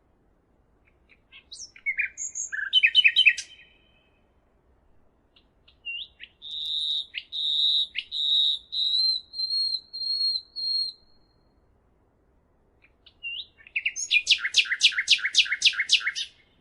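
A songbird singing in three phrases: a quick burst of chirps about two seconds in, then a run of clear whistled notes at one pitch, then a fast trill of about eight rapid notes near the end.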